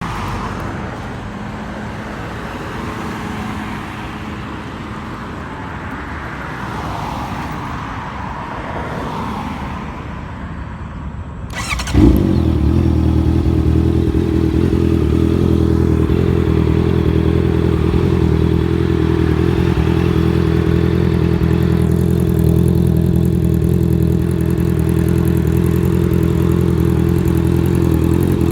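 Honda CBR650F inline-four motorcycle with an aftermarket DAIVO exhaust starting up about twelve seconds in and then running steadily, with a deep, even exhaust note. Before it starts there is only quieter background noise.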